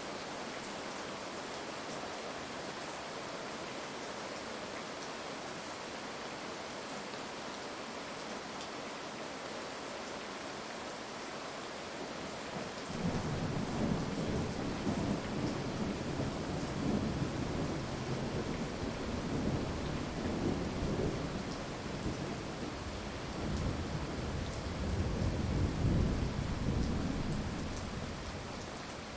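Steady heavy rain hissing, with a long roll of thunder that breaks in suddenly about halfway through, rumbles in several swells and dies away near the end.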